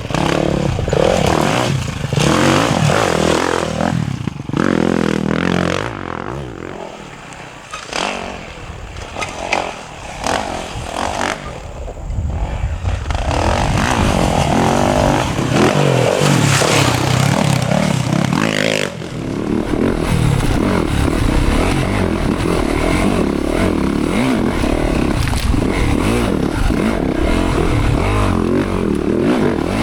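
Enduro dirt bike engines revving hard, their pitch rising and falling with throttle and gear changes. The sound drops back for a few seconds about a quarter of the way in, then a louder, steadier engine runs from about two-thirds of the way through.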